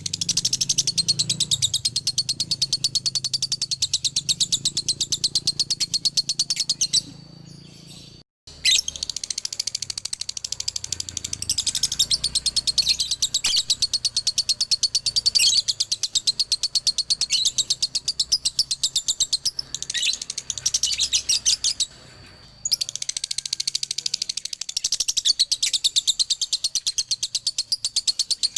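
Male lovebird in a long, very fast, high-pitched chattering trill (the 'ngekek' double-song), breaking off briefly twice, about seven and twenty-two seconds in.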